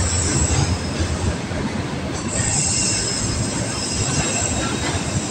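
Container freight train's wagons rolling past close by, a steady rumble of steel wheels on the rails, with a high wheel squeal strongest from about two seconds in.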